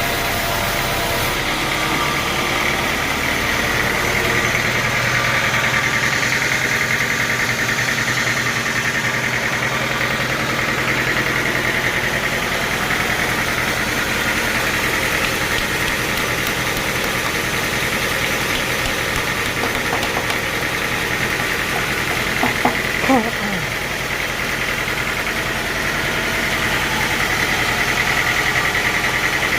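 Sawmill machinery running with a steady, loud mechanical drone and hiss. About three-quarters of the way through there are a few brief louder sounds, one a short falling squeal.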